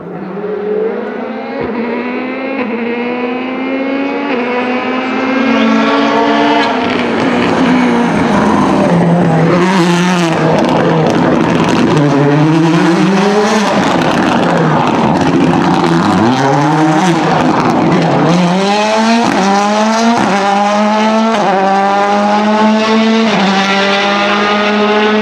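Ford Fiesta WRC Plus rally car's turbocharged 1.6-litre four-cylinder engine at full throttle: revs climb, turn rough and noisy in the middle, then it accelerates hard through several quick upshifts, the pitch rising and dropping at each shift, and ends on a steady high note.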